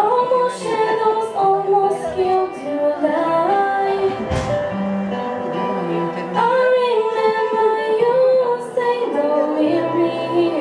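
Female voices singing a slow melody over instrumental accompaniment.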